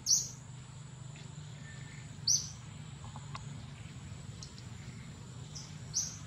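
A bird chirping: three short, high chirps, the first right at the start, one a little over two seconds in and one near the end, over a steady low outdoor hum.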